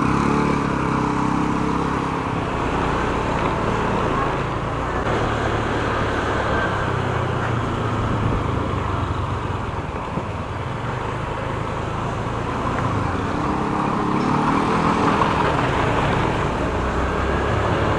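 Motorcycle engine running under way with wind rushing past and traffic around; the engine revs up just after the start and again a few seconds before the end.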